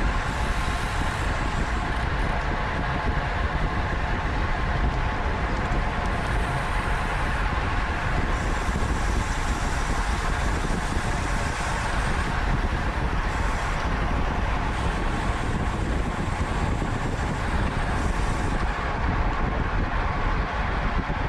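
Steady rush of wind on the microphone of a camera riding on a road bicycle at race speed, mixed with tyre and road noise.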